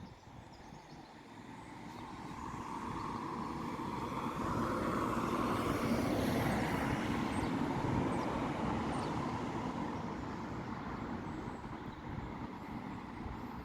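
A passing vehicle, its noise swelling slowly to a peak about halfway through and then fading away.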